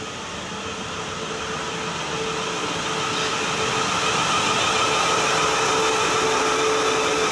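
South Western Railway Class 450 Desiro electric multiple unit running into the platform, a steady whine over wheel and rail noise that grows louder for the first few seconds as the train draws alongside, then holds level as the carriages pass close by.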